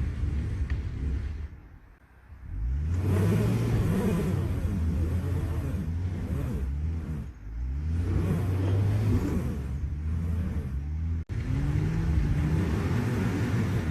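Jeep Gladiator's engine revving up three times, climbing in pitch with each push and easing off between them, with a brief drop to near quiet just before the first rev and a sudden cut shortly before the last.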